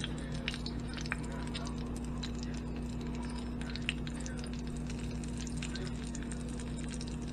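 Breaded squirrel legs frying in hot bacon grease in a small cast-iron skillet: an irregular sizzle of scattered crackles and pops, over a steady low hum.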